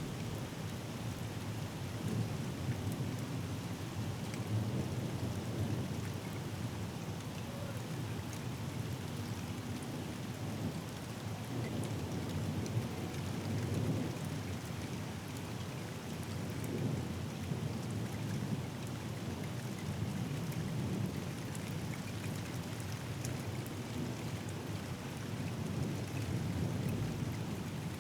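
Steady rain falling, with fine drop ticks throughout. Low rolling thunder swells and fades several times.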